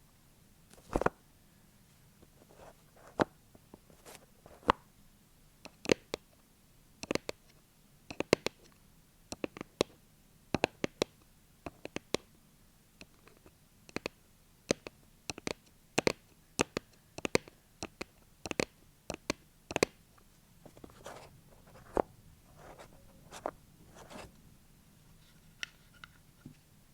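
Fake fingernails tapping on a hard surface: crisp, irregular clicks, often in quick pairs or small clusters, with short pauses between.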